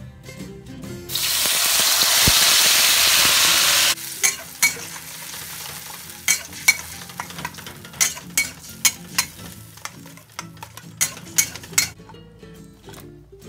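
Blended chilli-and-spice paste poured into hot oil in a steel wok, sizzling loudly about a second in; the sizzle stops abruptly about three seconds later. Then a metal spatula stirs and scrapes the paste around the wok, with many sharp metal clicks over a quieter sizzle until near the end.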